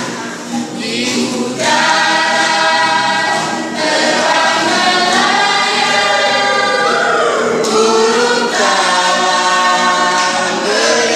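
A group of voices singing together in harmony, with long held notes over a steady low accompaniment.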